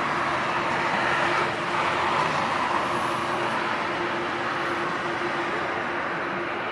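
Jet engines of a Korean Air Boeing 737-800 on takeoff: a steady rushing noise that swells about a second in and slowly fades.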